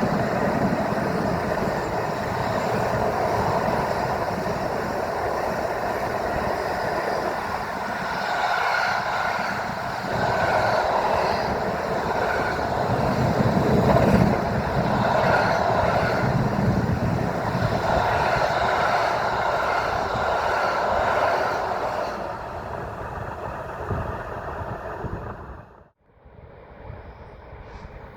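Freight train rolling past: a loud, steady rumble of wagons running on the rails. Near the end the sound cuts off abruptly, leaving a much quieter background.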